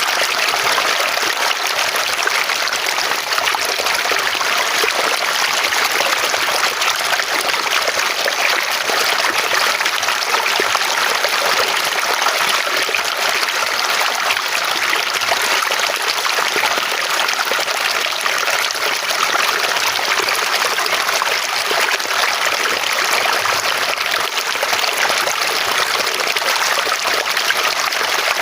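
Flowing water running steadily, a continuous even rush and trickle like a stream.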